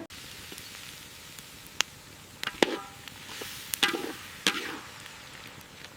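A handful of sharp chopping knocks at uneven intervals, some coming in quick pairs, over a faint steady background.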